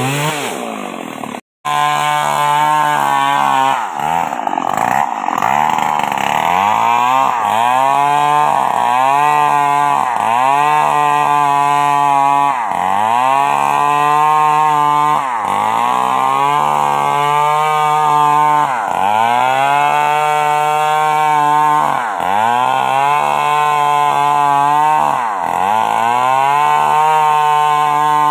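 Old Stihl two-stroke chainsaw running hard while ripping a coconut palm trunk lengthwise. Its engine note repeatedly sags and climbs back, about every one to two seconds, as the chain loads up in the wood. There is a brief break in the sound about a second and a half in.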